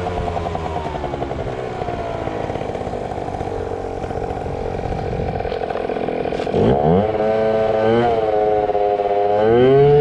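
Small two-stroke scooter engine, a Yamaha ZR Evo, running steadily, then revved up sharply about two-thirds of the way in and revved again twice near the end.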